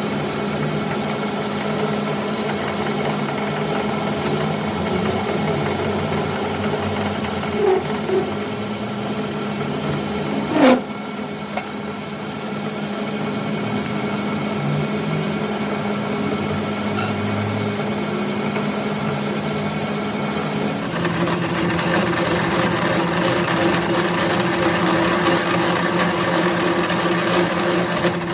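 A machine motor running steadily with a hum, with a couple of short knocks and a falling whine about ten seconds in, and a change in its pitch and tone about two-thirds of the way through.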